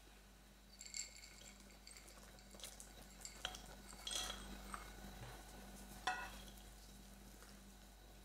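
Scattered light clinks and taps of small hard objects over a faint steady hum, loudest about a second in and again about six seconds in.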